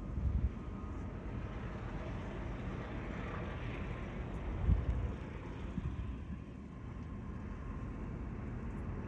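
Outdoor wind and street traffic noise in a snowstorm, with wind buffeting the microphone in two low thumps, the louder one about halfway through.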